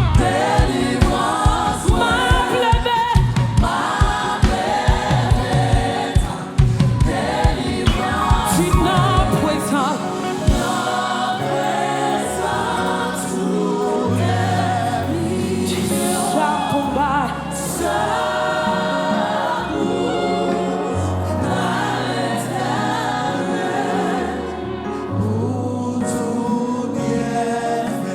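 Live gospel worship music: a choir singing with a band. A steady drum beat drives the first ten seconds or so, then drops out, leaving held bass notes under the voices.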